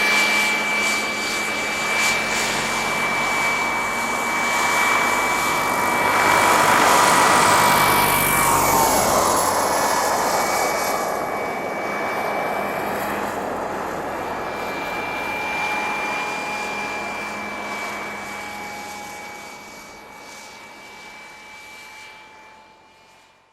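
Model helicopter's small turbine engine whining over the rush of its rotors, rising to its loudest, dropping in pitch about eight to nine seconds in as it passes, then fading away.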